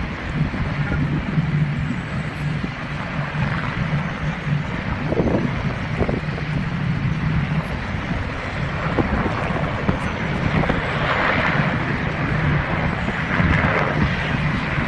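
A steady engine drone with wind noise on the microphone.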